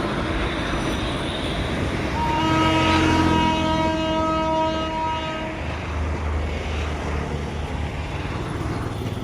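Indian Railways electric locomotive's horn: one long steady blast of about three and a half seconds, starting about two seconds in, over the low rumble of a running train.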